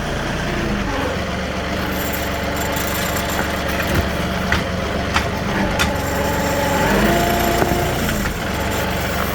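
Compact diesel tractor (John Deere 2038) running while driving with a load on its forks; its pitch rises and falls between about six and eight seconds in. A few sharp knocks and rattles come through around the middle.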